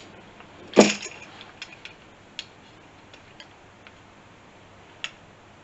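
Calipers clicking and ticking as they are slid and closed onto a small LED light to measure it: one sharp click about a second in, then a few faint ticks.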